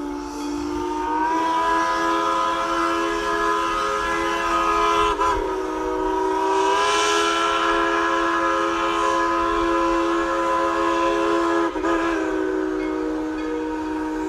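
Dollywood Express steam locomotive No. 192's chime whistle blowing a long, loud, multi-note blast, rising slightly in pitch as it opens and held with two brief breaks.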